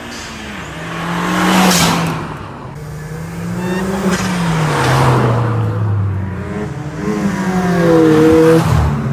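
Cars accelerating past one after another, their engines revving up and down. The sound swells loudest three times, about two, five and eight and a half seconds in.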